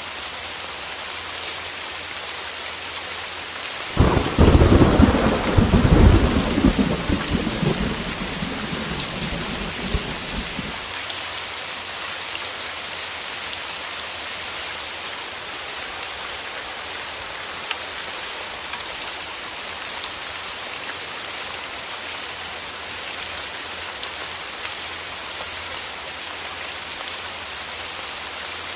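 Steady heavy rain hissing, with a sudden crack of thunder about four seconds in that rolls on as a low rumble and dies away over the next several seconds.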